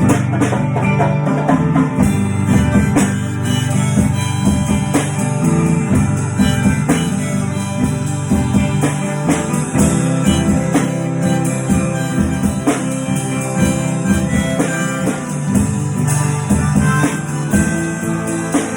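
A band playing an instrumental break: guitar and harmonica over a steady bass line, with no singing.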